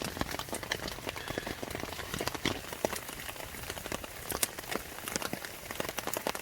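Steady rain falling on a tent: a constant hiss with many sharp, irregular taps of drops striking the fabric.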